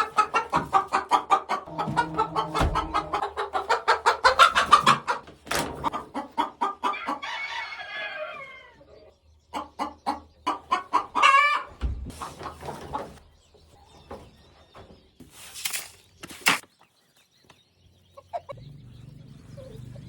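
Chickens clucking and cackling: a loud, fast run of clucks for about the first five seconds, tailing off into falling calls, then scattered single clucks. There are a couple of short scuffling noises in the second half.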